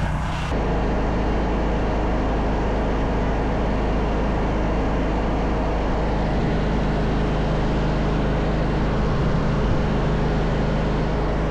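A vehicle engine running steadily: a low hum under an even rush of noise.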